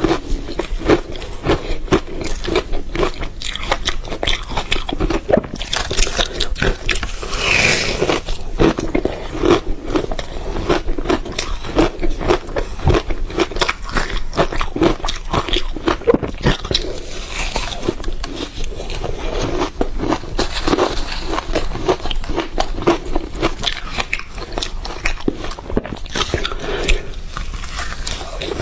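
Ice being bitten and crunched in the mouth close to the microphone: a continuous run of crunching and crackling chews.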